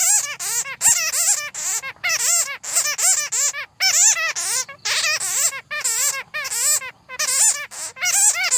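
Bats chattering: rapid strings of high, squeaky calls, each bending up and down in pitch, several a second, with brief pauses twice.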